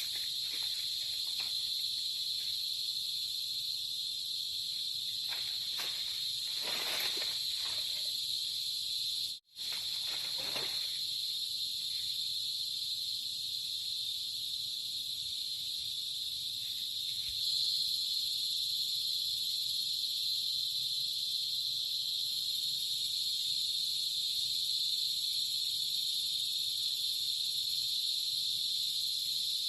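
Steady, high-pitched chorus of insects trilling without pause. It cuts out for an instant about a third of the way in and grows slightly louder a little past halfway.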